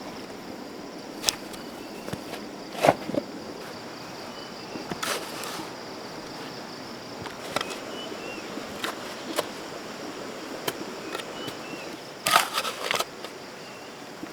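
Outdoor rural ambience: a steady high insect drone with brief bird chirps, broken by scattered knocks and scrapes. The knocks bunch into a quick cluster near the end.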